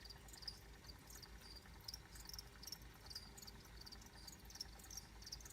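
Faint insect chirping, likely crickets: short high chirps repeating several times a second over a low steady hum.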